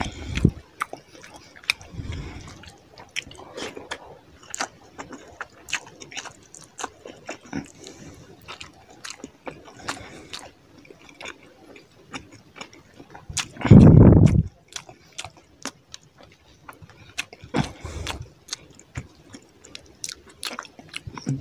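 Close-miked wet chewing and lip-smacking of fish curry and rice eaten by hand, full of small sharp mouth clicks. About two-thirds of the way through, a brief low muffled sound stands out as the loudest thing.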